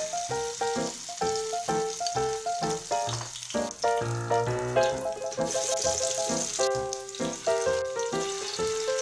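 Tofu fritters sizzling as they fry in hot oil, under background music with a rhythmic melody.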